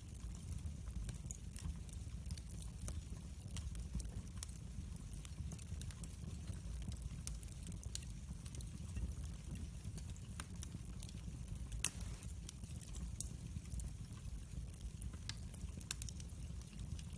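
Open fire crackling, with scattered small pops over a steady low rumble; one sharper pop about twelve seconds in.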